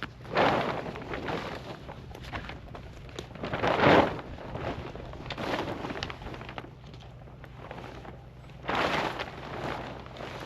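Heavy black plastic tarp rustling and crackling in several noisy bursts as it is handled and hooked up, the loudest a little under halfway through.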